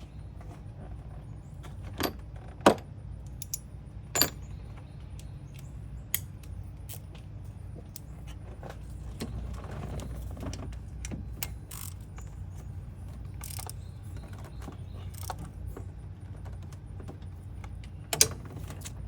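Metal clinks and taps of hand tools and parts being handled in an engine bay: a few sharp, separate clicks, the loudest about three seconds in, over a low steady hum.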